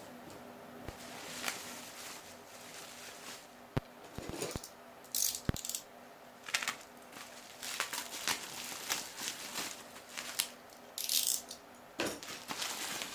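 Plastic bubble-wrap packaging being handled and unwrapped: intermittent crinkling and rustling with a few sharp clicks about four to five seconds in.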